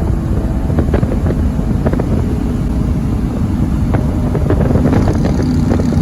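Lifted pickup truck's straight-pipe exhaust running loud and steady at highway speed, with wind buffeting the microphone.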